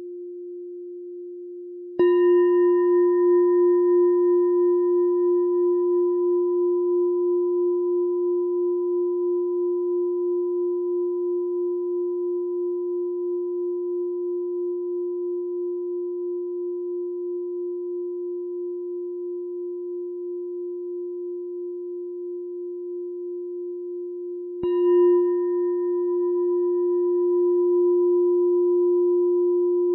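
Meditation bell struck twice, about two seconds in and again near twenty-five seconds. Each stroke rings on in one long, low, slowly pulsing tone with brief higher overtones that die away first, and the tone fades gradually.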